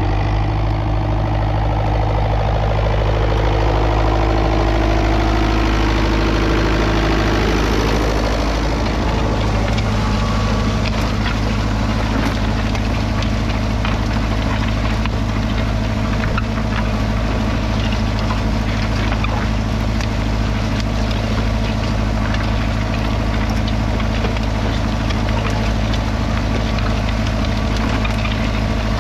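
1976 Fiat 640 tractor's 3.5-litre four-cylinder diesel engine running steadily. Some higher tones drop in pitch over the first eight or so seconds, then the running settles to an even note with light clicking through it.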